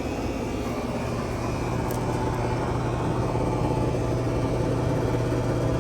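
Central air conditioner condenser units running: a steady low electrical hum with fan noise, getting slightly louder over the few seconds.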